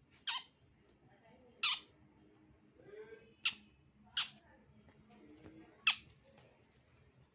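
Young sun conure screeching: five short, sharp, piercing calls, spaced about one to two seconds apart.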